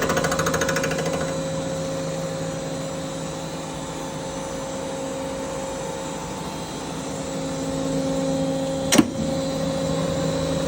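Machine tool running with a steady motor hum while skimming a crankcase mating face flat; a rhythmic cutting chatter fades out about a second in. A single sharp knock about nine seconds in.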